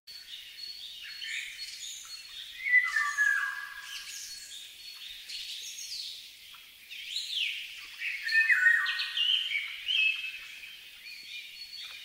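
Wild birds chirping and whistling, many short calls overlapping, some gliding up or down in pitch. The calls are louder about three seconds in and again in the later part.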